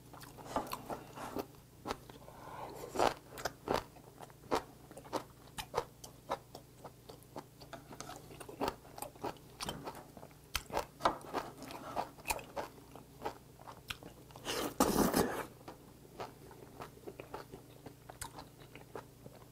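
Close-miked chewing of soft, rubbery boiled hagfish with chives: many small wet clicks and smacks from the mouth. About fifteen seconds in there is one short, louder burst of noise.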